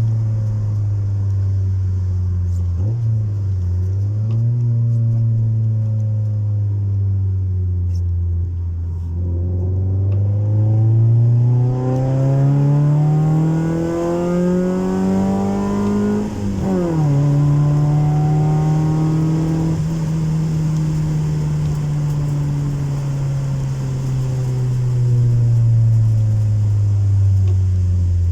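Honda Civic 1.4i S four-cylinder engine with a custom exhaust, under way: the engine note sinks, then climbs steadily for several seconds under acceleration. About halfway through it drops sharply at an upshift, holds, and slowly falls away.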